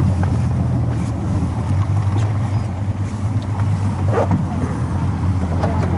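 Boat engine running steadily at low speed while the boat manoeuvres alongside landing steps.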